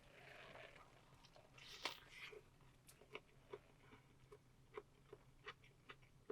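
A person chewing crunchy food, with soft, regular crunches about three a second after a sharper bite.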